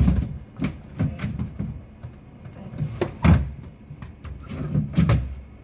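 Refrigerator drawers and shelves being handled and pulled at: a series of knocks and clunks, the loudest about three seconds in.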